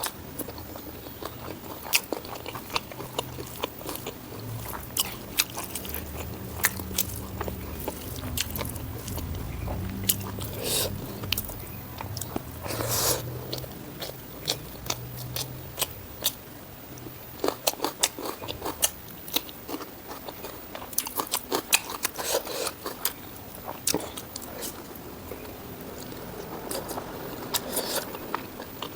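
Close-miked eating: biting and chewing spicy pork ribs with rice, with many sharp, crunchy mouth clicks. A low hum runs underneath for about the first half.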